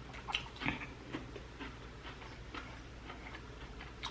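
Close-miked chewing of tomahawk steak: faint, irregular wet mouth clicks and smacks, a few a second, a little louder in the first second and a half.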